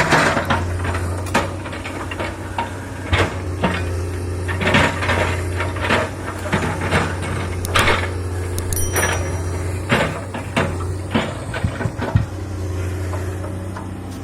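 Komatsu PC200 excavator's diesel engine running steadily, with repeated sharp knocks and clunks of stone boulders being moved.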